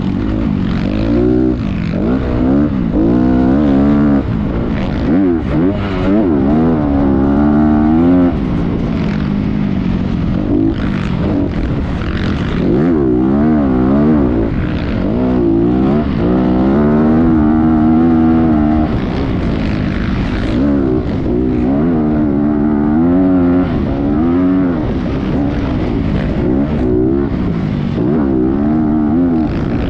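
Motocross bike engine being ridden hard, its pitch rising and falling again and again every second or two as the throttle is opened and shut.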